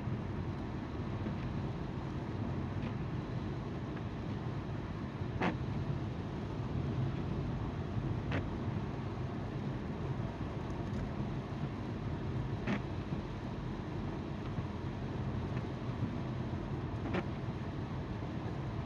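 Car driving: steady road noise from the tyres and a hum from the engine, heard from inside the car. A few short clicks come every few seconds.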